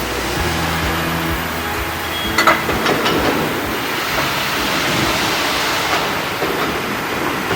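Steady mechanical rumble of factory machinery, with a low hum for the first couple of seconds and a few sharp metallic clinks about two and a half seconds in.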